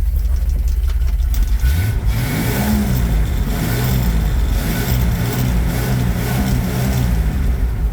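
1986 Ford F250's 300 cubic-inch inline-six engine running with a steady low rumble, blipped up about two seconds in and then revved unevenly, its pitch rising and falling. It has a rough idle, which the owner puts down to a poor carburetor and a bad vacuum leak.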